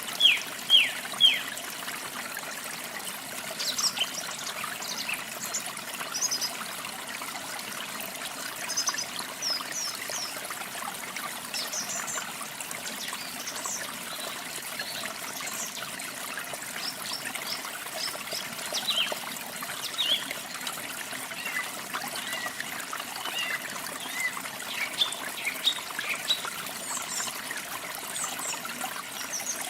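Water trickling steadily, with small birds chirping over it: a loud run of quick falling chirps in the first second or so, then scattered short, high calls.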